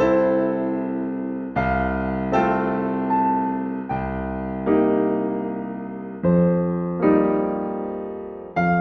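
Solo piano playing slow, gentle classical music in sustained chords, a new chord struck about every second and left to ring down.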